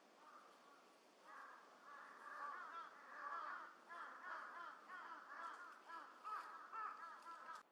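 A flock of birds calling together, many short arched calls overlapping. The calling builds about a second in and cuts off abruptly near the end.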